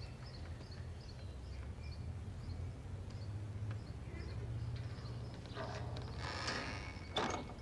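A small bird chirping over and over, about three short high chirps a second, fading out after the first few seconds, over a low steady hum. Near the end comes a brief rustle and a sharp knock.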